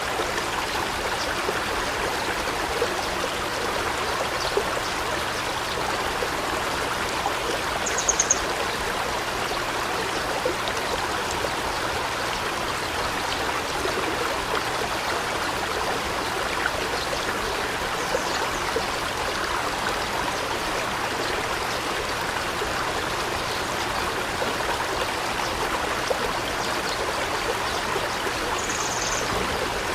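Stream water flowing and trickling steadily over rocks. A short, high, rapid bird trill comes twice, about eight seconds in and near the end.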